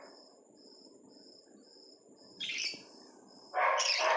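Bird chirping: a faint, short high note repeated about twice a second, with two louder, harsher calls, one about halfway through and one near the end.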